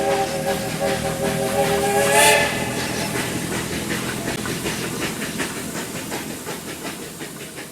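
Baldwin steam locomotive No. 232 sounding its whistle, several steady notes together, which cuts off about two seconds in with a burst of steam hiss. Then the locomotive's exhaust beats and steam hiss go on in a quick, even rhythm, fading away as it works up the grade.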